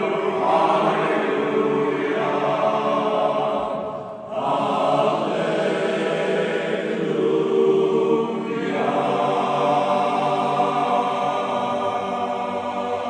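Barbershop chorus singing a cappella in close harmony, holding long sustained chords, with a brief break about four seconds in.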